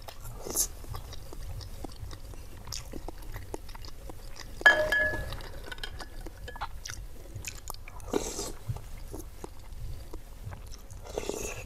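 Close-miked chewing and wet mouth sounds of someone eating lontong sayur, with many small clicks. About five seconds in, a metal spoon knocks against the glass bowl with a short ringing clink, the loudest sound.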